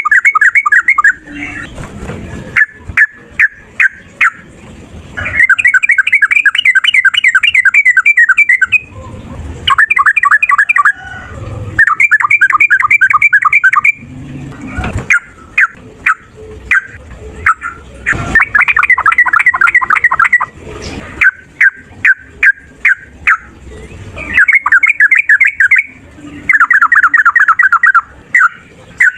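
Yellow-vented bulbul (trucukan) singing fast chattering runs of rapidly repeated notes. Each run lasts a second or a few, and sharp single notes come between the runs.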